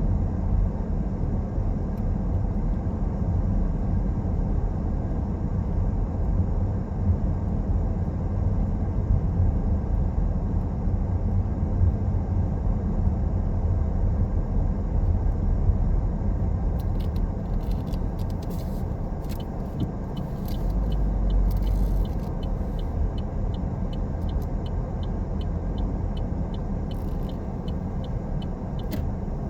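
Car driving along a road: steady low engine and tyre rumble. In the last third a light, regular ticking comes in, about twice a second.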